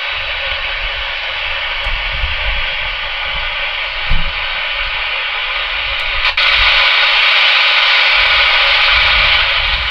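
Spirit box radio sweeper hissing static from its small speaker as it scans through radio stations; the hiss gets louder about six seconds in.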